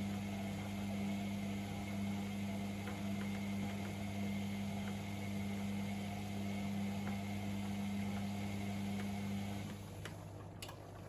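Privileg Sensation 952 S top-loading washing machine running with a steady electric hum and faint ticks. About ten seconds in, part of the hum cuts out and the sound drops, followed by a couple of sharp clicks.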